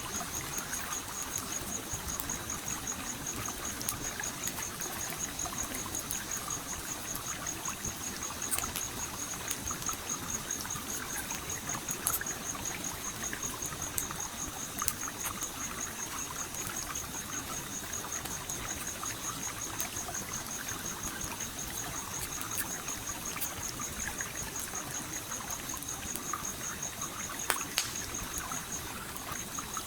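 Stream flowing steadily, with a campfire crackling over it in scattered sharp pops, two close together near the end. A high, fast pulsing chirp runs throughout and breaks off briefly near the end.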